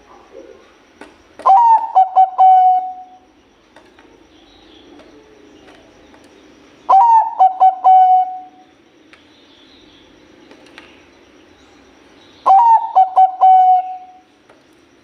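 Zebra dove (Bangkok-type perkutut) cooing: three calls about five and a half seconds apart. Each is a quick run of staccato coos lasting about a second and a half, starting a little higher and settling on one pitch.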